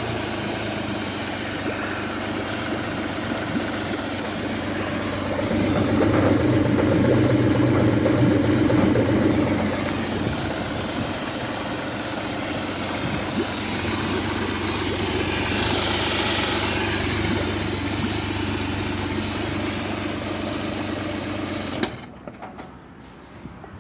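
Honda 60 four-stroke fuel-injected outboard motor running steadily at idle on a test run, with cooling water coming through. It runs a little louder for a few seconds about a quarter of the way in, then cuts off abruptly near the end.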